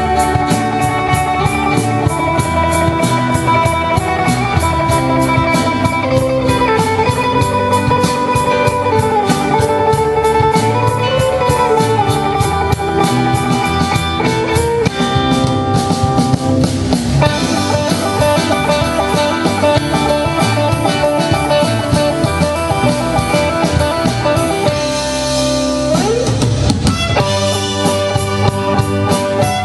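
Band music with guitar over a drum kit keeping a fast, steady beat, and a rising glide in pitch near the end.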